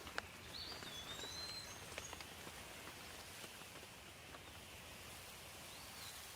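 Steady light rain falling, with scattered drips. A bird whistles a gliding call about half a second in, adds a few higher chirps, and gives a short whistle again near the end.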